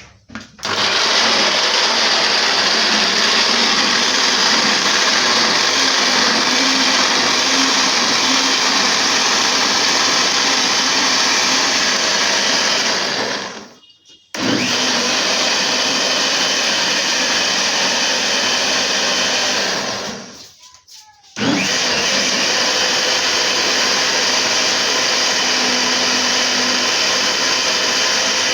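Electric blender grinding beetroot, running steadily in three long runs with two brief stops in between.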